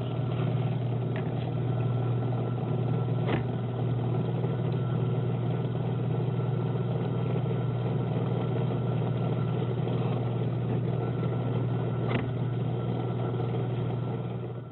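Steady low mechanical hum, like an idling engine, unbroken throughout, with two faint clicks, one about three seconds in and one near the end.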